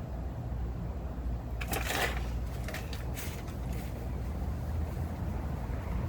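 Rustling, crinkling handling noises from the exhaust repair materials being worked by hand, a cluster about two seconds in and a few shorter ones after, over a steady low rumble.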